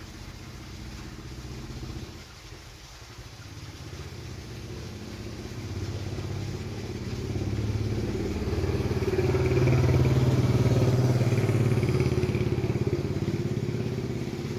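A motor vehicle's engine running, growing steadily louder to a peak about ten seconds in, then easing off, as a vehicle passing close by.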